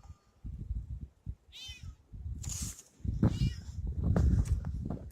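House cat meowing, about three meows in the second half, over a low rumbling noise that grows louder about three seconds in.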